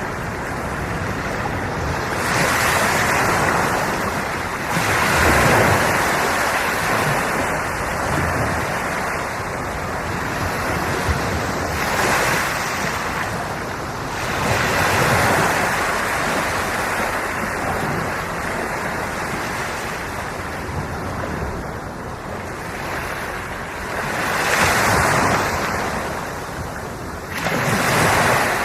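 Sea waves breaking and washing on the shore: a continuous rushing wash that swells louder every few seconds as each wave comes in.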